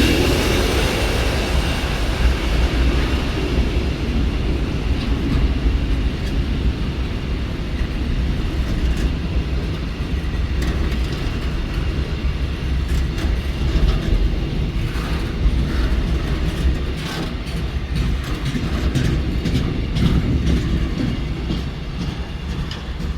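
Passenger train running, heard from inside a carriage: a steady low rumble of wheels on the track, with scattered clicks and knocks from the running gear and car body.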